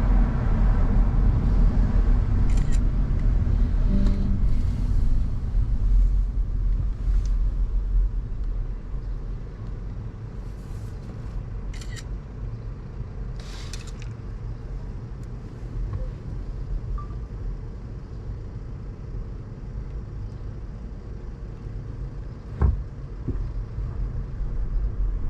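Car driving: a steady low rumble of engine and road noise that drops in level about eight seconds in. A few brief hisses pass over it, and there is a single sharp knock near the end.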